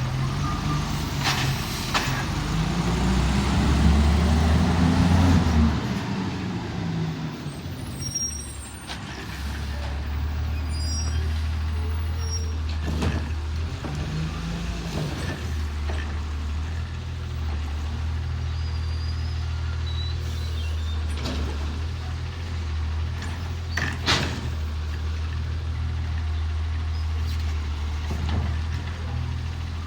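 Refuse truck's diesel engine running, revving up and back down a few seconds in, with short sharp air-brake hisses now and then.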